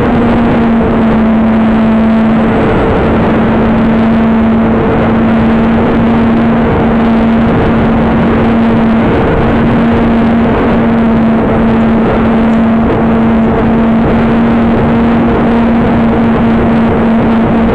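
Strong wind rushing over the microphone, with a steady humming tone from the model's two small brushless electric motors, the pitch wavering only slightly.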